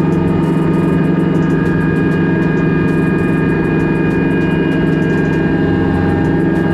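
Kubota B3000 tractor's three-cylinder diesel engine running steadily at a constant speed, with steady high whining tones above the engine note.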